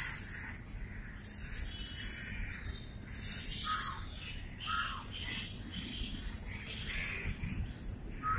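Wild birds calling in the background with short falling notes about once a second, among bursts of high hiss.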